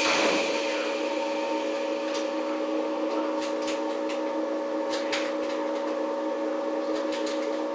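Inside a 115 series electric multiple unit motor car (MoHa 114) standing still: a steady hum of several fixed tones from the car's onboard equipment, with a few faint clicks. A hiss dies away in the first half second.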